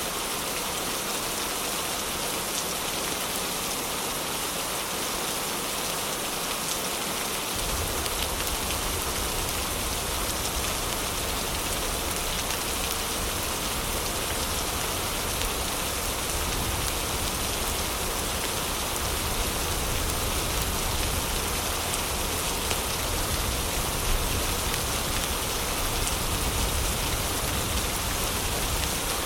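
Heavy rain falling steadily, a dense even hiss of drops. About seven seconds in, a low rumble starts suddenly underneath and carries on.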